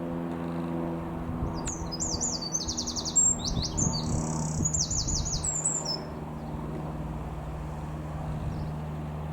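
A songbird singing a few seconds of quick, repeated high trilled phrases, over a steady low engine drone.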